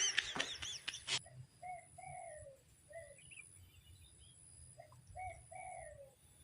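A bird calling: short, falling notes, repeated in pairs and small groups, after a brief clatter of clicks in the first second.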